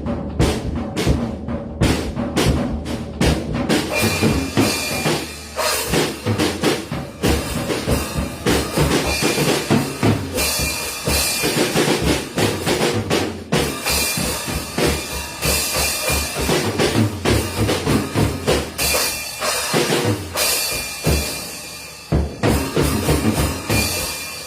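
Drum kit played hard and fast: rapid drum strikes, mainly drums for the first few seconds, then with cymbals crashing and washing over them.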